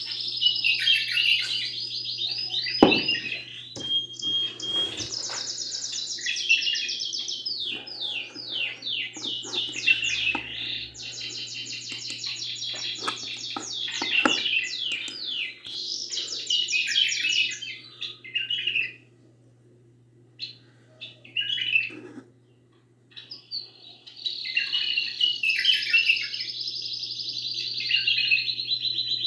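A songbird singing long, fast, trilled phrases, high and bright. The song pauses for a few seconds past the middle, with only a few brief notes, then resumes. A low steady hum runs underneath.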